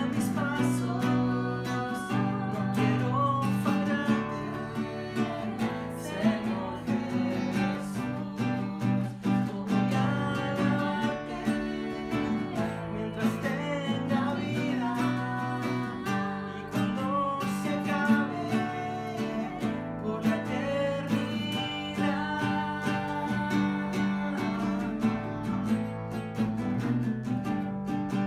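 Worship song played on a strummed acoustic guitar.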